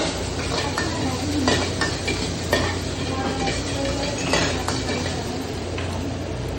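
Fried rice being stir-fried: a spatula scraping and clinking against the pan several times over a steady sizzle.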